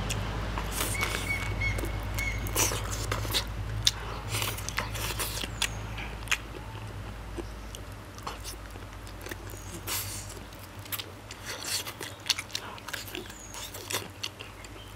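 Close-up eating sounds of someone biting and chewing braised pig's trotter: wet chewing with irregular lip smacks and clicks. A low rumble underneath fades out about ten seconds in.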